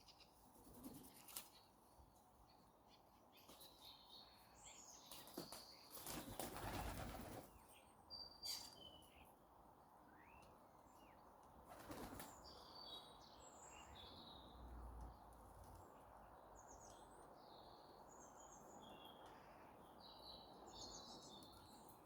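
Birds at a feeder making faint, short high chirps scattered throughout, with a rush of wing flaps about six seconds in and a shorter flutter about twelve seconds in.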